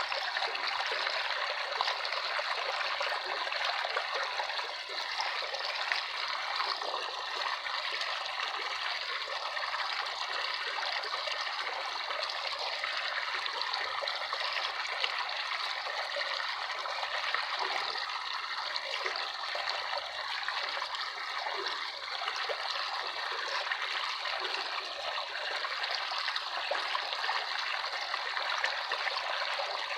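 Flowing water trickling steadily, like a small stream over stones, light and even, with no deep rumble.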